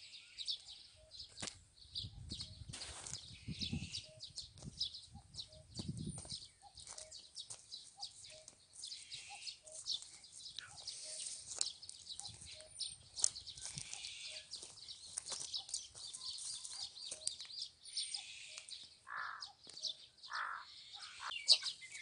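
Birds chirping and calling outdoors, many short high chirps throughout, with a soft lower note repeating about once a second. A couple of low rumbles come a few seconds in.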